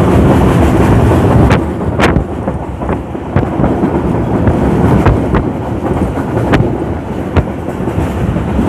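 Inside a moving passenger train's economy-class carriage: the steady rumble of the train running, with irregular sharp clacks from the wheels on the track. The rumble is louder for the first second and a half, then eases.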